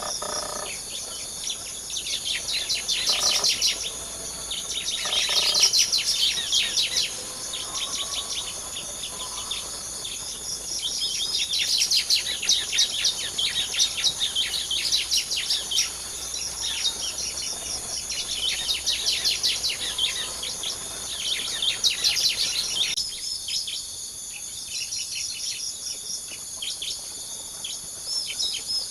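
Bar-winged prinias (ciblek) calling in bouts of rapid, high chirps, several times with short gaps between. A steady high drone of insects runs underneath.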